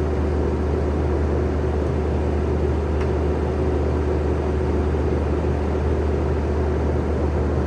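Diesel engine of a compact track loader running steadily, a constant low drone with a steady hum over it.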